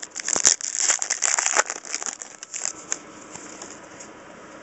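Foil trading-card pack wrapper being torn open and crinkled, with a few sharp clicks, for about three seconds, then it goes quiet.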